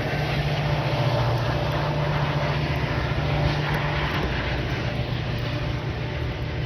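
Diesel commuter train running by, a steady low engine drone over continuous wheel-and-rail noise, easing a little toward the end.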